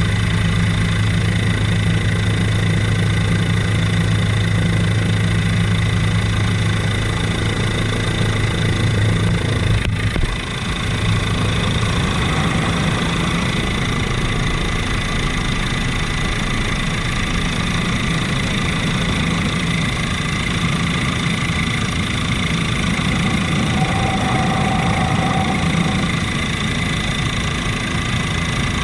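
Helicopter engine and rotor noise, heard steadily, with a deep hum and a thin high whine. About ten seconds in, the deep hum drops away abruptly and the engine noise carries on.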